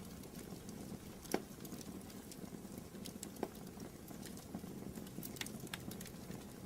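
Wood fire in a fireplace crackling over a steady low rumble of the flames, with scattered small clicks and two louder pops.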